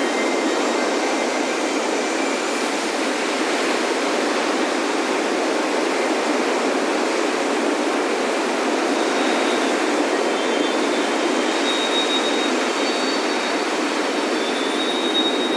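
Steady roar of ocean surf breaking on a sand beach, with faint high wind-chime tones ringing near the start and again in the last few seconds.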